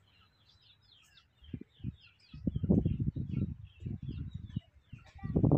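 Small birds chirping, with many short high chirps repeating throughout. Irregular low rumbling bursts come in from about a second and a half in and are louder than the birds.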